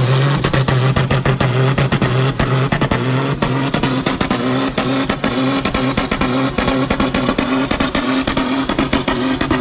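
Racing truck's diesel engine running hard at steady high revs, a loud drone holding one pitch, with crackle running through it.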